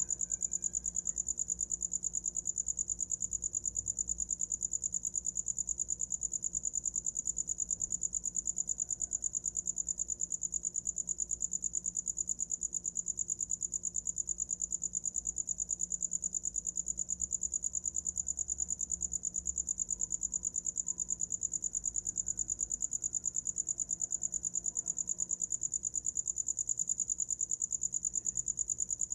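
A cricket chirping without a break: a high, steady trill in rapid, even pulses that never changes in pitch or rhythm.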